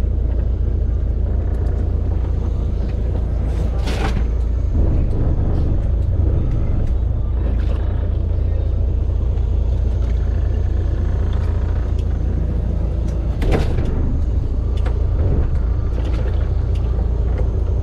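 Steady low rumble of a fishing boat's engine running, with a couple of sharp knocks, about four seconds in and again near thirteen seconds.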